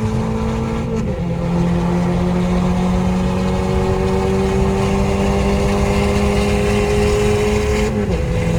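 Volkswagen Mk6 GTI's turbocharged 2.0-litre four-cylinder engine pulling under gentle acceleration, its note climbing slowly, with two upshifts where the pitch drops: about a second in and near the end.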